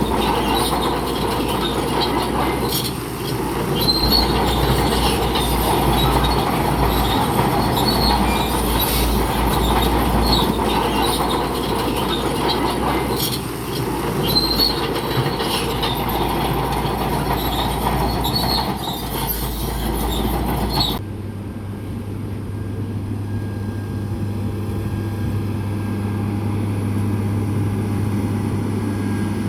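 Crawler bulldozer at work: diesel engine running under load with its steel tracks clanking and giving short squeals again and again. About two-thirds of the way through, the sound cuts abruptly to a steadier, lower engine drone.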